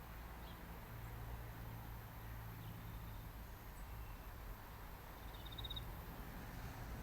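Faint outdoor ambience: a steady low rumble with a light hiss, and a brief high trill of a few rapid chirps about five and a half seconds in.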